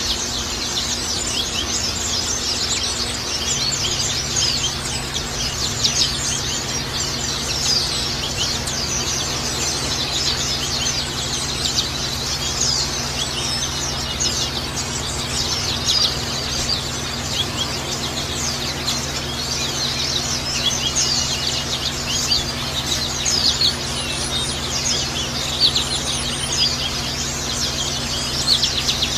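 White-eyes (pleci) twittering in a fast, unbroken stream of high chirps, over a steady low hum.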